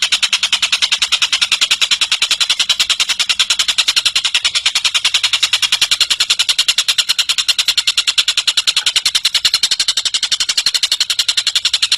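A tengkek cililin bird calling in one unbroken, rapid trill of sharp high notes, about ten a second, steady throughout.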